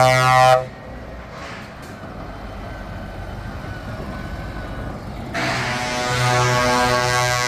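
Truck air horns blowing: a loud blast that cuts off about half a second in, then a lower stretch of truck engine noise, and another long multi-tone horn blast starting about five seconds in.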